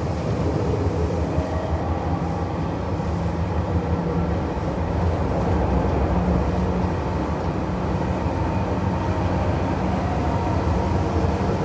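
Running noise inside a Tokyo Metro 7000 series motor car travelling at speed: a steady rumble of wheels on the rails.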